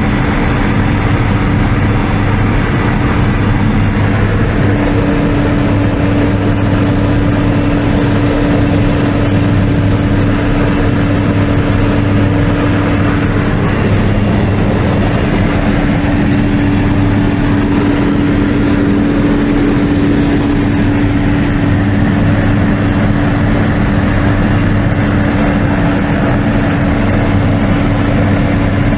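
Light aircraft's piston engine and propeller running steadily, a loud, even drone heard from inside the cabin.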